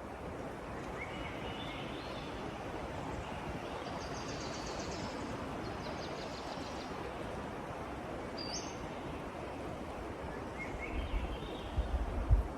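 Steady rushing forest ambience with songbirds calling over it: a rising run of short notes twice, buzzy trills in the middle, and a single chirp. Low rumbling bumps come in near the end.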